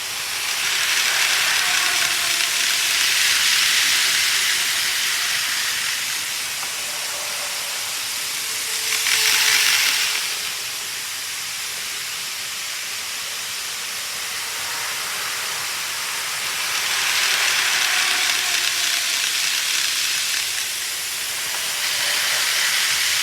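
Model trains running on the layout track: a hissing rolling noise that swells and fades as trains pass, with a short louder burst about nine seconds in.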